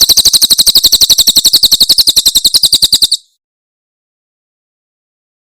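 Cililin bird singing its rapid 'tembakan' trill: a fast, even run of sharp high notes, about twelve a second, that stops abruptly about three seconds in.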